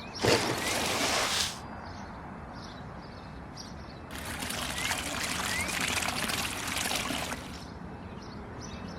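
Something being poured, in two spells: a short pour just after the start and a longer one from about four seconds to about seven and a half seconds.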